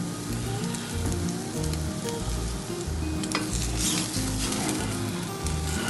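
Ostrich egg omelette sizzling in oil in a nonstick frying pan, with a spatula scraping and clicking against the pan about three to four and a half seconds in. Background music with a steady bass line plays underneath.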